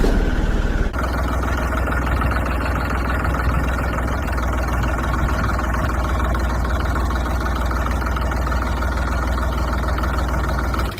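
Engine idling steadily, a constant low drone.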